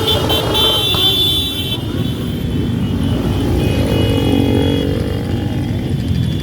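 Many motorcycle engines running together as a parade of bikes rides past, a steady rumble with individual engines rising and falling in pitch.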